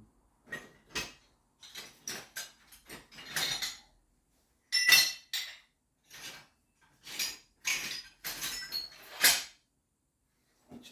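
Scrap pieces of steel clinking and clanking against each other as they are sorted through by hand, a string of irregular knocks with the loudest ones about five and nine seconds in.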